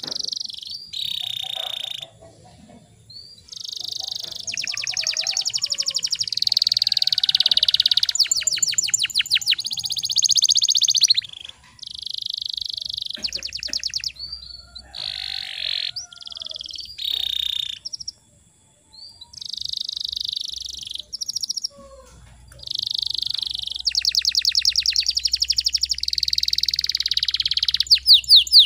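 Domestic canary singing: long phrases of bright chirps and fast rolling trills, broken by short pauses.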